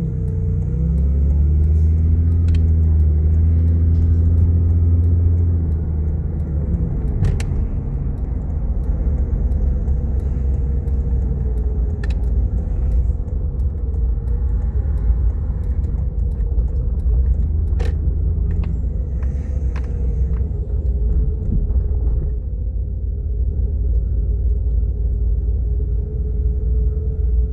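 A vehicle's engine and road rumble heard from inside the cabin while driving, with the engine note louder in roughly the first six seconds as it pulls away, then settling into a steady rumble. A few faint sharp clicks occur here and there.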